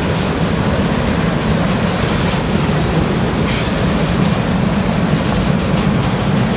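Freight train cars (centerbeam flatcars and covered hoppers) rolling past close by: a loud, steady rumble of steel wheels on rail, with faint rapid clicking over the last couple of seconds.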